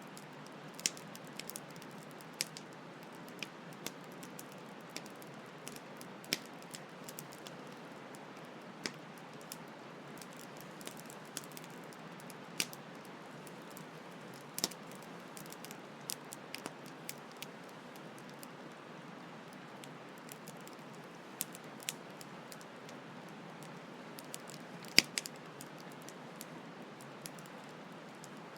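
Campfire crackling, with irregular sharp pops and snaps and one louder pop near the end, over the steady hiss of a flowing stream.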